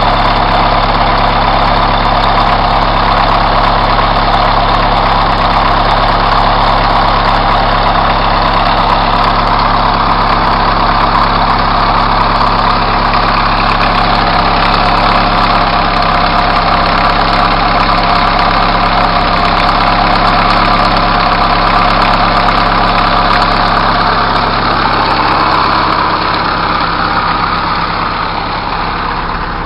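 Truck engine idling steadily, with a steady rushing noise over it that eases off near the end.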